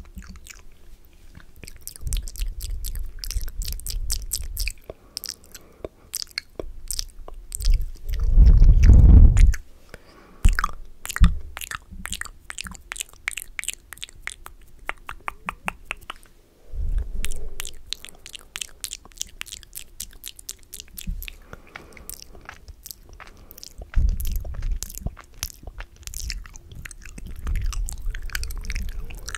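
Close-miked ASMR mouth sounds: rapid wet clicking and smacking of lips and tongue. Several low, muffled rumbles come and go, the loudest about eight seconds in.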